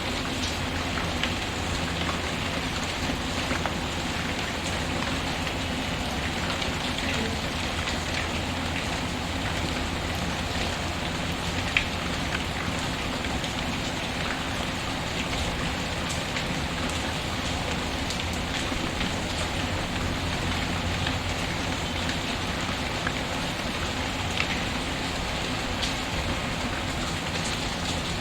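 Steady rain mixed with a wood fire crackling: an even hiss of rainfall with scattered small pops, one sharper pop about twelve seconds in.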